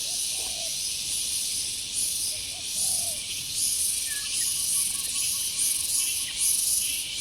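Loud chorus of insects: a high, buzzing hiss that swells and fades about once a second. A few faint, short coos of a spotted dove sound underneath it.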